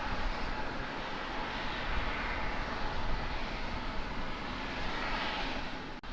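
Jet airliner engines running, a steady rush of noise that swells slightly partway through.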